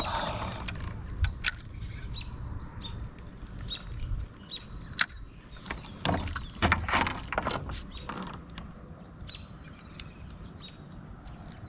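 Irregular clicks, knocks and rattles of fishing gear and the fish being handled in a kayak, loudest in a cluster of rattling about six to seven seconds in, over a steady low rumble.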